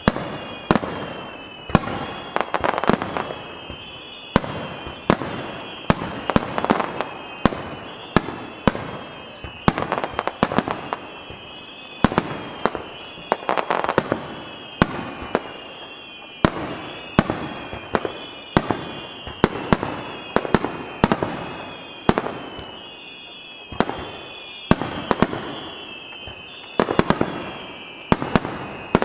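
Starmine fireworks display: a rapid run of aerial shells bursting in sharp booms, about one to two a second, each followed by a short echoing tail. A steady high wavering tone runs underneath.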